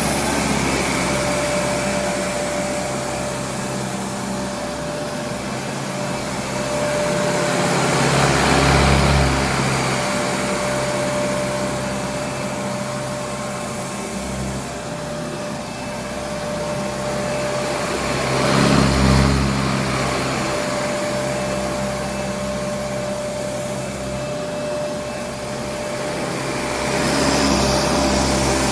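Kenmore Progressive DirectDrive upright vacuum cleaner (Panasonic-built, model 116.35923500) running, with its brush roll driven by a motor inside the roller rather than a belt. It is a steady motor drone with a constant whine, swelling louder three times, roughly ten seconds apart.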